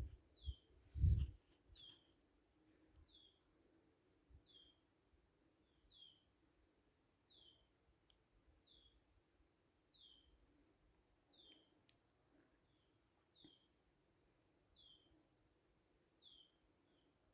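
A bird singing one two-note phrase over and over, a short high note followed by a falling lower note, about once a second, over a faint steady hum. A few low thumps sound in the first second or so, the loudest about a second in.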